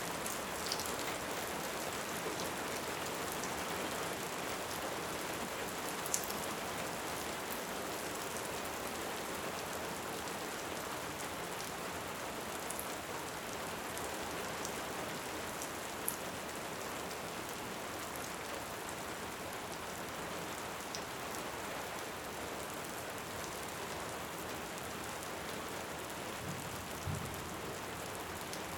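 Steady rain falling on a surface, with a few sharp crackles from a wood fire. A faint low rumble of distant thunder comes in near the end.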